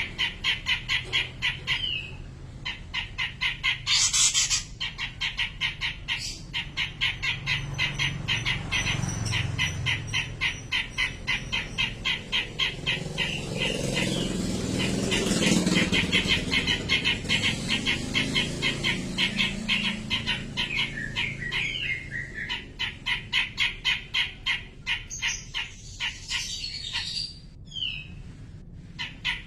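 Cucak jenggot (grey-cheeked bulbul) calling in a long, fast run of repeated harsh notes, about eight a second, with a louder note about four seconds in.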